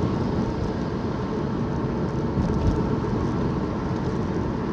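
Steady road and engine noise inside a moving car's cabin, an even low rumble with no break.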